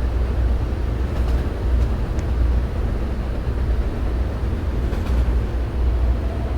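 Steady low rumble of an R160B subway train.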